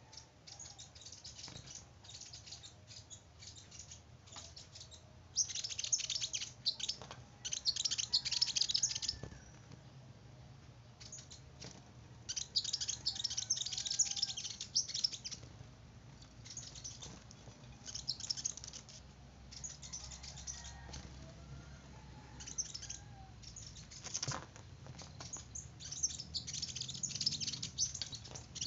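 A small bird twittering in rapid, high-pitched bouts of a few seconds each, several times over, with quieter gaps between.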